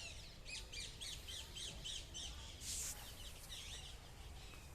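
Birds calling faintly in quick, evenly repeated high chirps, with a short harsh burst a little under three seconds in and more scattered chirps after.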